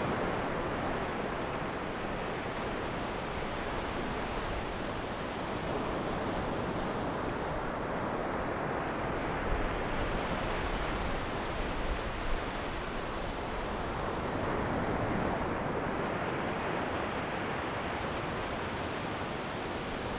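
Ocean surf: waves breaking and washing up the shore in a continuous rush that swells and ebbs slowly.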